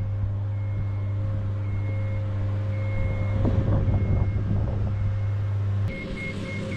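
Genie aerial work lift being lowered: a steady low motor hum with the motion alarm beeping at irregular intervals, and a stretch of rattling about halfway through. Near the end the hum cuts off and the alarm switches to a faster, regular beep.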